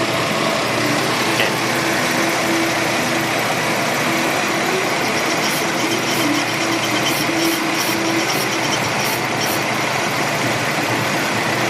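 Chevrolet Venture's 3.4-litre V6 idling steadily. The engine sets a random-misfire code and runs lean, which the mechanic suspects is caused by a hose after the MAF sensor sucking in air.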